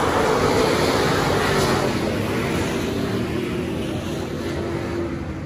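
Dirt-track race car engine noise, with wind, gradually fading over the few seconds.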